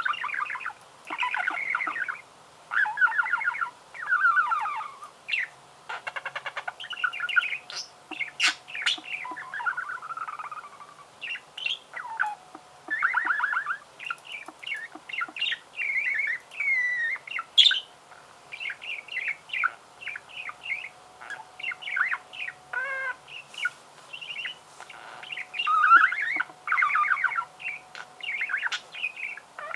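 Budgerigar warbling: a continuous, rambling run of chirps, chatter and short whistles, broken by brief pauses.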